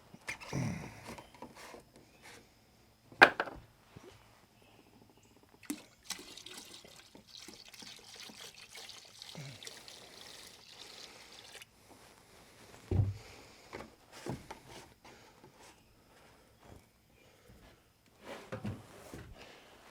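Cleaning chemical (bleach and other soft-wash products) being poured into a bucket for about six seconds in the middle, mixing up a soft-wash solution. Knocks and thumps of the jug and bucket being handled come before and after, the sharpest a few seconds in.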